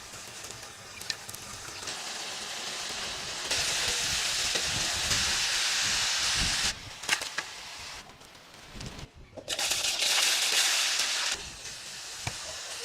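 Chicken frying in hot oil, a sizzle that jumps louder and drops back abruptly a few times, with a few light clicks about seven seconds in.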